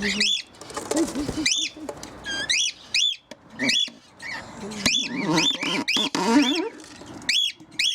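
A pet bird screeching right at the microphone: a string of loud, sharp, arched calls, one or two a second, with softer, lower chatter between them.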